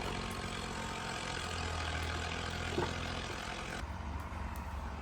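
A steady low mechanical hum under a constant hiss, with one short knock about three seconds in; the upper part of the hiss drops away near the end.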